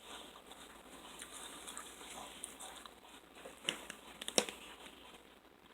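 Faint eating sounds: quiet, irregular chewing and mouth noise, with two short sharp clicks a little under a second apart about four seconds in.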